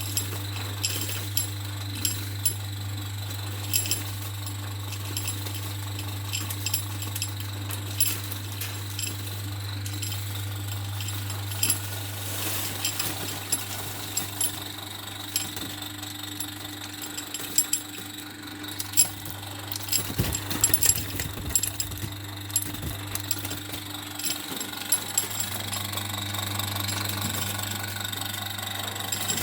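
Fire crackling in a fireplace: sharp, irregular pops and snaps, thicker in the second half, over a steady low hum.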